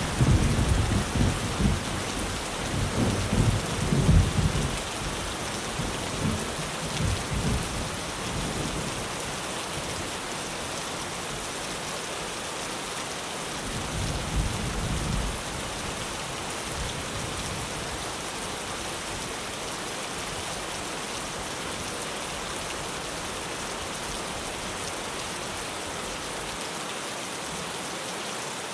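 Steady heavy rain drumming on a tin roof, with rolling thunder that rumbles through the first several seconds, loudest about four seconds in, and a second, shorter rumble about halfway through.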